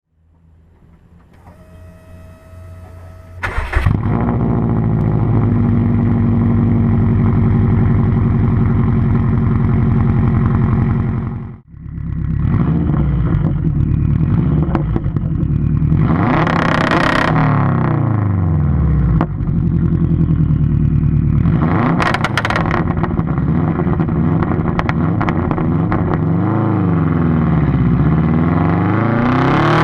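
Straight-piped Subaru WRX flat-four engine with an open exhaust. It comes in loudly a few seconds in and runs steadily, drops out briefly near twelve seconds, then rises and falls in pitch again and again as the car accelerates and changes gear.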